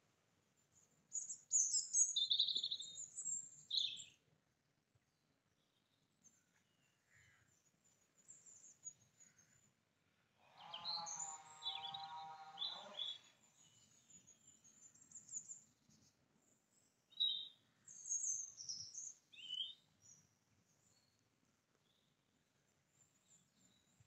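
Small birds chirping and singing in short high-pitched phrases, loudest about a second in and again about seventeen seconds in. A lower, steady pitched sound runs for about two seconds midway.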